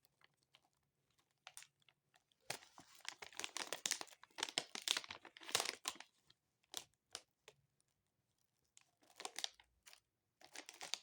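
Plastic wrapper of a snack package crinkling and tearing as it is opened, in bursts of rustling with scattered clicks between, the longest stretch in the first half.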